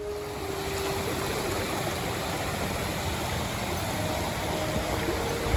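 Steady rushing noise with an unsteady low rumble underneath.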